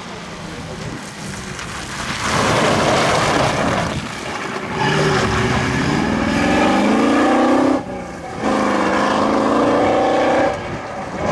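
Off-road rally car's engine at full throttle, getting loud about two seconds in, then revving up with a rising pitch. It cuts off sharply for a gear change, pulls hard again, and drops off near the end.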